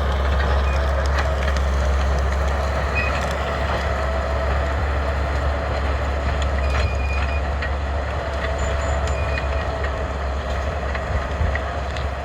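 Caterpillar D8 crawler bulldozer's diesel engine running steadily under load with a low rumble as it pushes brush and scrap wood, a faint whine coming and going over it.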